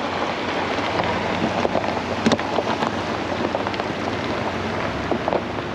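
Truck rolling down a gravel forest road: a steady rush of tyre noise with scattered clicks and pings of loose stones.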